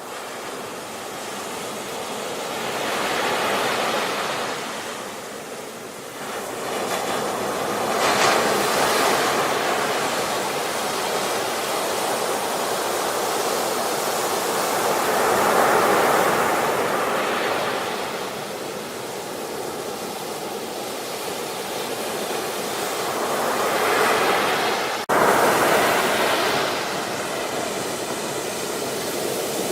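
Ocean surf: waves breaking and washing up the shore, the rush of water swelling and fading every several seconds, with a brief break in the sound about 25 seconds in.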